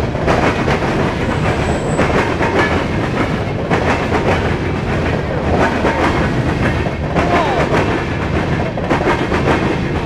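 Covered hopper cars of a Norfolk Southern freight train rolling past close by: a steady rumble of steel wheels on rail with a rhythmic clickety-clack over the rail joints and a few brief squeals.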